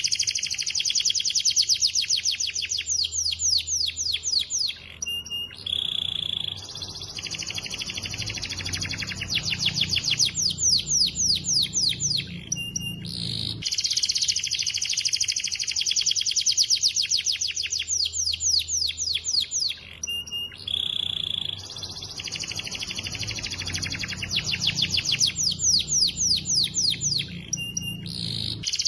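Domestic canary singing: long, fast trills of rapidly repeated notes, broken by short pauses and a brief held whistle. The same run of phrases repeats about every 14 seconds, a looped song recording.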